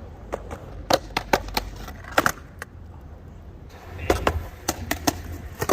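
Skateboard on Ace AF1 Hollow trucks rolling over pavement with a steady low rumble from the wheels, broken by about seven sharp clacks of the board and trucks hitting the ground.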